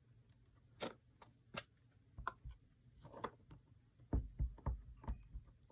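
Rubber stamp being inked and pressed onto paper at a craft table: scattered light taps and clicks, then a quick cluster of soft thumps about four seconds in.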